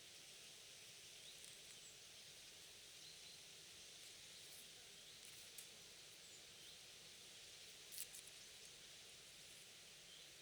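Near silence: faint forest ambience with an even hiss, a few faint short chirps and a few soft clicks, the largest about eight seconds in.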